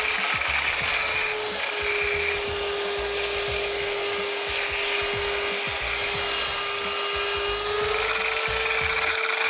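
Pressure washer running: a steady motor whine under the hiss of the water spray, cleaning grime off an engine. The whine steps up a little in pitch near the end.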